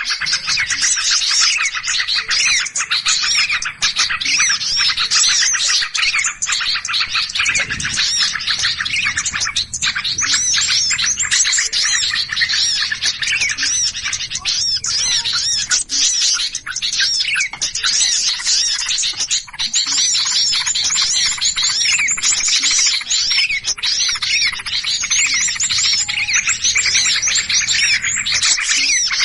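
Many small birds chirping and calling at once in a dense, unbroken noisy commotion of quick overlapping chirps: a 'burung ribut' lure recording played to draw in small birds.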